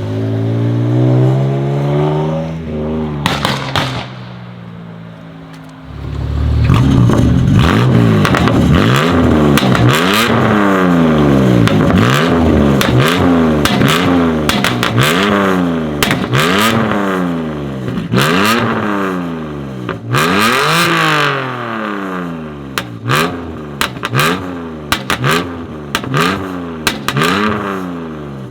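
BMW M2 Competition's twin-turbo straight-six, tuned to about 700 hp with TTE740+ turbos and a full Akrapovič Evolution exhaust, revving hard. One rising rev ends in sharp cracks about three seconds in; after a short lull a long run of quick revs follows, rising and falling about once a second, with exhaust pops and crackles that come thicker toward the end.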